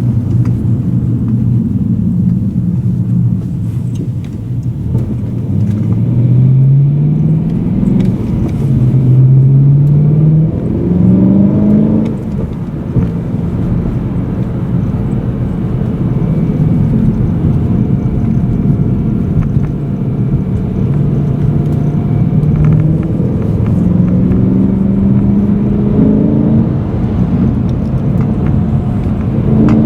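BMW M3 E92's 4.0-litre V8 heard from inside the cabin, pulling up through the gears with quick upshifts about six to twelve seconds in, then easing off and running steadily. It pulls up through the gears again with a shift in the last third before lifting off near the end.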